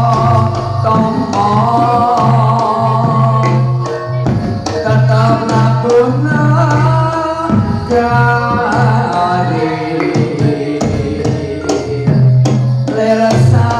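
Live jatilan music: Javanese gamelan-style ensemble with hand drums and pitched percussion playing a steady rhythm under a singing voice.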